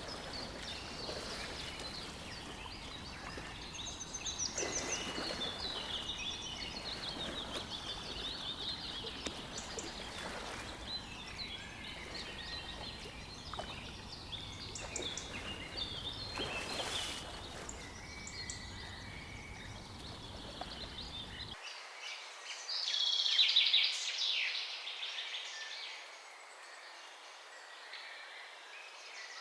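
Several songbirds chirping and trilling over a low outdoor background noise. About two-thirds of the way through the background drops out at once, and a louder, fast trill follows.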